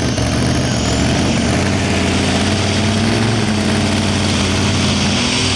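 Competition pulling vehicle's engine running hard and continuously under load during a pass down the pull track, its pitch holding steady with slight rises and dips.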